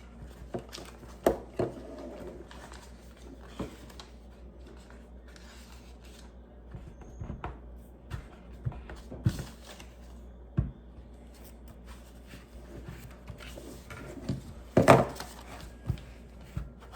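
Plastic Lego pieces being handled: scattered small clicks, taps and rustles as parts are picked up and fitted together, with a louder clatter near the end.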